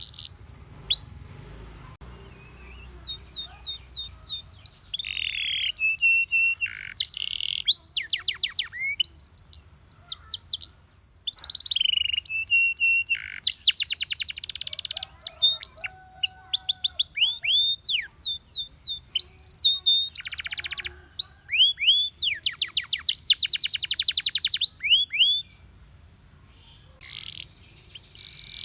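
Domestic canary singing in varied phrases: fast rolling trills of repeated notes, quick falling whistled sweeps, and a few long held tones, with short pauses between phrases.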